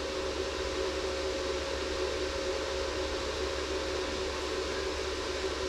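A fan running steadily: an even hiss with a low hum and a few faint steady tones underneath, unchanging throughout.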